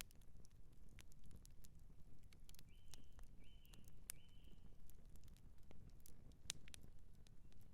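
Campfire crackling: irregular sharp pops and snaps over a low steady rumble. About three seconds in, three short high chirps sound in quick succession.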